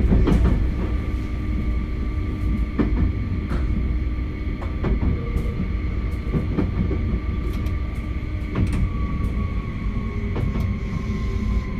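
JR West 271 series electric train running, heard from inside the car: the whine of its Hitachi SiC inverter and traction motors over a low rumble, with scattered clacks from the wheels over rail joints and points. The whine drops slightly in pitch in the last few seconds as the train slows.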